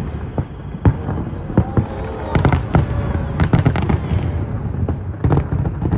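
Aerial fireworks bursting overhead: a rapid, irregular series of sharp bangs and crackles over a continuous low rumble.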